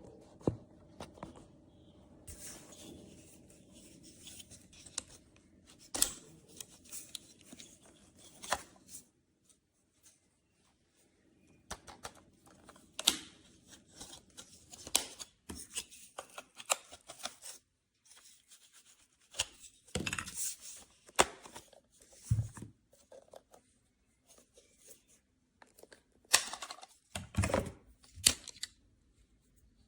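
Irregular handling noises: sharp clicks and taps, with short stretches of rustling or tearing and quiet gaps between them.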